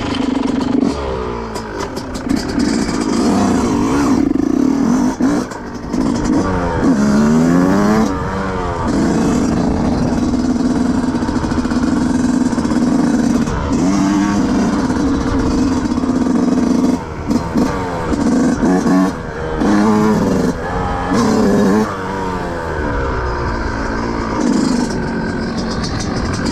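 2005 Yamaha YZ125's single-cylinder two-stroke engine running with its engine not yet fully warm. Long stretches at steady high revs are broken several times by revs rising and falling.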